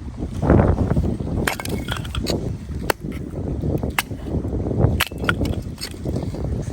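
Irregular sharp clicks and knocks, about one every second or less, over a low rumbling noise.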